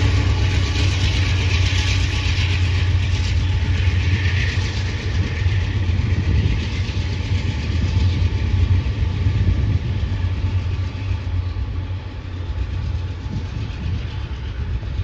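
A train passing on the rails: a steady low rumble with a hiss of wheel-on-rail noise, slowly fading as it moves away, the hiss thinning out over the second half.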